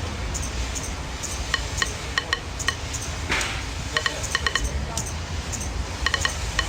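City ambience with a steady low rumble, mixed with percussion instruments imitating it: irregular sharp metallic clinks that ring at a high pitch, lighter ticks, and a short hiss about three seconds in.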